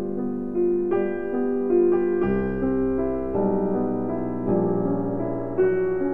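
Background music: piano playing a slow melody over held chords, with a new note or chord about once a second.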